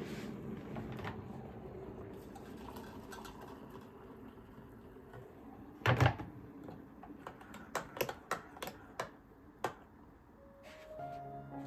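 Light handling sounds of small objects at home: one sharp knock about halfway through, then a scatter of quick clicks and taps. Soft background music comes in near the end.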